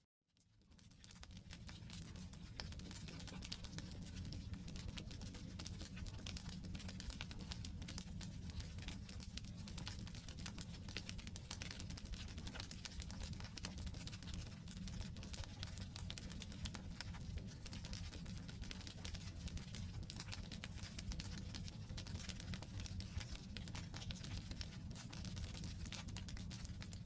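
Wood fire burning: a steady stream of small, sharp crackles and pops from the firewood over a low rumble, fading up during the first second or two.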